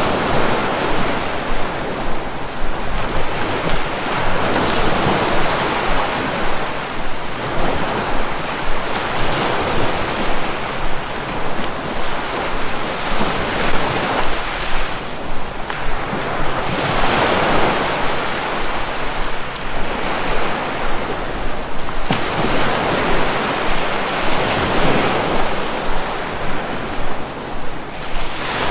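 Sea waves washing in continuously, each swell rising and easing away every few seconds.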